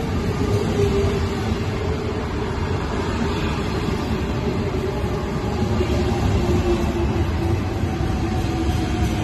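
Double-deck passenger train rolling slowly alongside the platform: a steady low rumble of wheels on rails, with a whine that slowly drops in pitch and a second, higher whine rising near the end.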